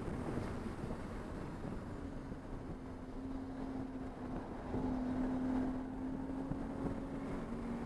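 Race car engine running at a steady held pitch under wind and road noise; the steady note comes in about two seconds in.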